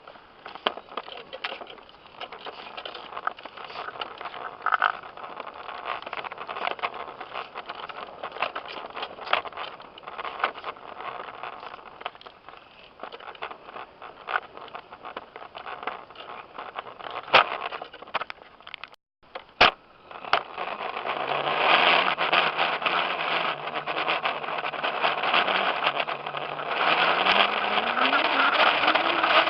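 On-board sound of a small dirt bike being ridden: rattling knocks and scraping over a noisy rush for the first part. After a brief dropout, the bike's motor comes in louder as a steady hum that rises in pitch near the end as it speeds up.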